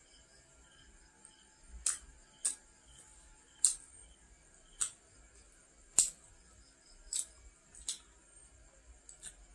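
Close-miked chewing of a fried Khmer nom krouch pastry: sharp, crisp crunching clicks about once a second, irregularly spaced.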